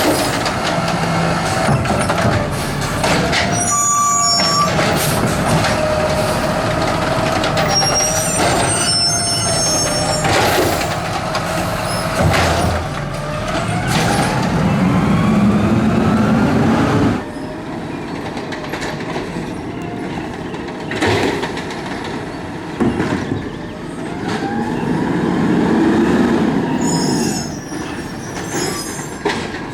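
Garbage truck at work: the engine and machinery run with a wavering whine, high brake squeals and scattered metallic clanks. The noise eases back about halfway through and swells again near the end.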